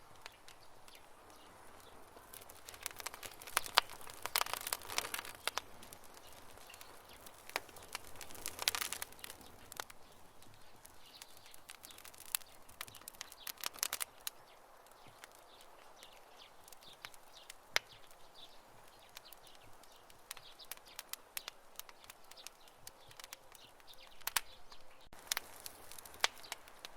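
Wood campfire crackling and popping: scattered sharp snaps over a soft hiss, with thicker flurries of crackles a few seconds in and again near the end.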